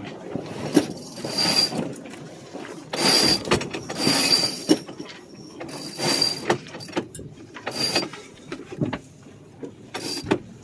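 Sailboat winch being cranked with a winch handle to haul in a line after a tack, its pawls ratcheting and clicking in about six separate bursts of cranking.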